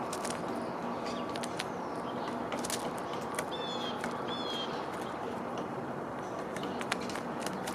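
Two short, high bird chirps, each sweeping downward, about three and a half and four seconds in, over a steady outdoor hiss with scattered light clicks.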